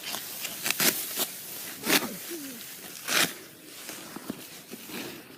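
Serrated sickle cutting through rice stalks: a series of short, crisp rasping swishes, the strongest about two and three seconds in.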